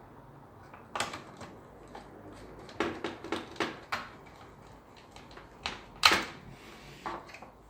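Irregular clicks and knocks of hard objects being handled: one about a second in, a quick run of four or five around three seconds in, the loudest just after six seconds, and a few lighter ones near the end.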